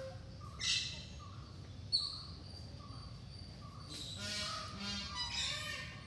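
Birds chirping and calling in short, repeated high notes. About two seconds in, a thin high whistle starts and holds for about two seconds.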